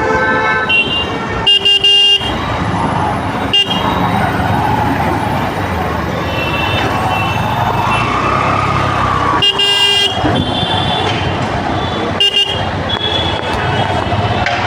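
Congested road traffic running steadily, with vehicle horns honking again and again. Two longer horn blasts come about two seconds in and about ten seconds in, with shorter toots between.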